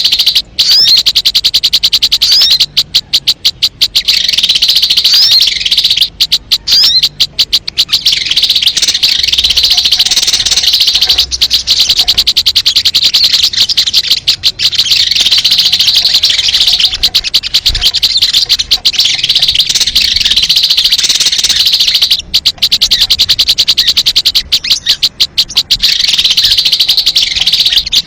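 Sogon bird lure call: loud, high-pitched chirping in fast rapid-fire trills that run on almost without pause, with only brief breaks.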